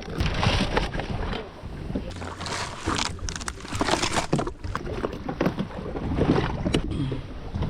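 Water splashing and slapping against a jet ski on the open sea, with wind buffeting the microphone in uneven gusts.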